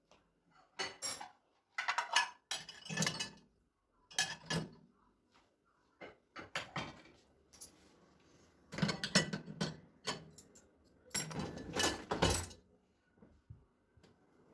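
Dishes and cutlery being handled in a kitchen: irregular clusters of clinks, clatters and knocks, with short pauses between them.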